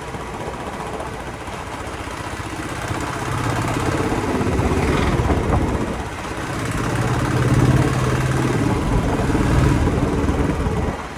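Motorcycle engine running at steady revs, growing louder about three seconds in and dropping away suddenly near the end.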